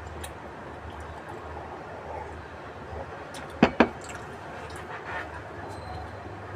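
Two sharp knocks, a fraction of a second apart, about halfway through, over a steady low background hum.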